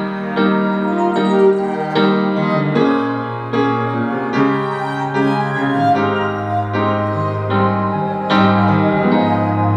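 Piano playing a song's instrumental introduction, a new chord struck about every three quarters of a second.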